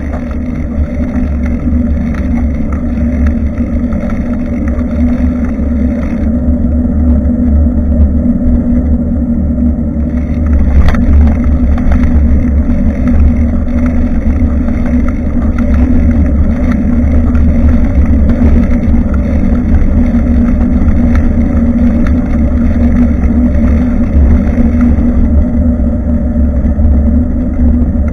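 Wind buffeting and road rumble on a bicycle-mounted action camera's microphone during riding: a loud, steady low rumble with a steady hum above it. A single sharp click about eleven seconds in.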